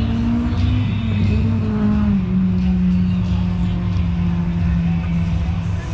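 Car engine running with a steady low note that drops slightly in pitch about two seconds in and then holds.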